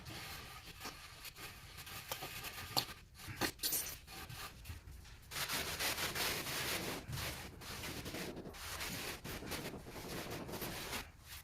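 A tool scraping and rubbing across a cement-mortar floor bed in irregular strokes, with a few sharp knocks a few seconds in.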